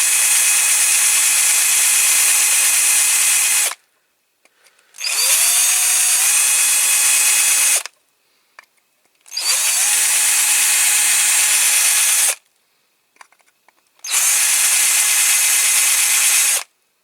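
Small electric drill drilling out the rivet posts holding a diecast toy's baseplate, run in four bursts of several seconds with short pauses between. Each burst opens with a rising whine as the motor spins up.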